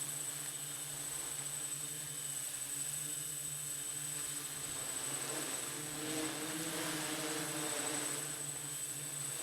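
Multirotor hexacopter's six motors and 14-inch props buzzing steadily in a hover, the pitch wavering about halfway through as the motors speed up and slow down to hold position against gusts. Wind rushes over the microphone throughout.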